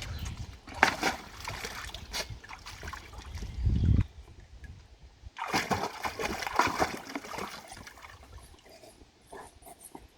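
Water splashing and sloshing in bursts, about a second in and again from about five to seven seconds in, over a low rumble that cuts off suddenly about four seconds in.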